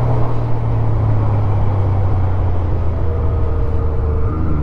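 Honda Gold Wing 1500's flat-six engine running at a steady cruise, with wind and road noise. The engine's hum dips slightly in pitch near the end.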